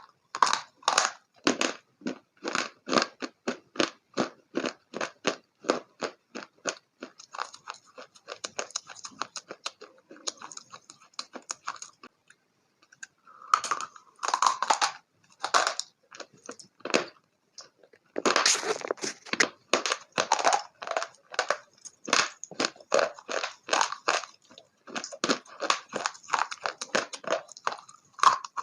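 A person chewing crunchy food close to the microphone: crisp, regular chews about two or three a second, with a couple of brief pauses.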